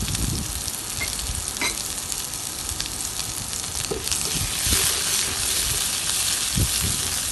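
Onion sautéing in hot oil in a frying pan, a steady sizzle that grows louder about four seconds in, with occasional knocks of stirring.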